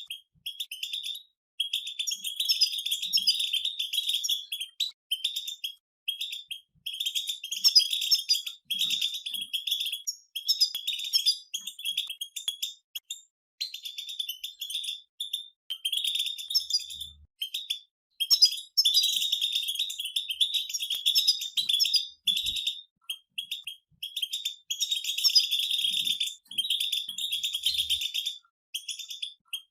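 European goldfinches singing together: fast, twittering song phrases coming in bursts of a few seconds with short pauses between.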